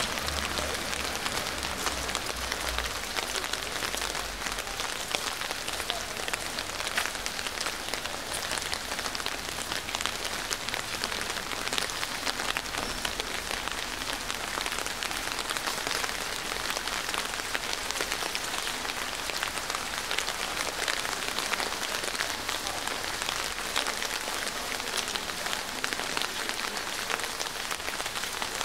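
Steady rain falling, an even hiss dense with small sharp drop ticks, with a low rumble for the first few seconds.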